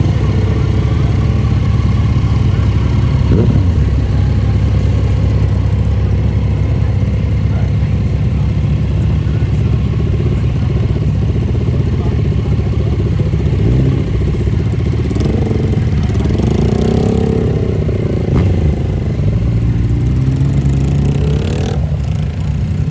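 Motorcycle engines running steadily close by, with the revs rising and falling several times in the second half.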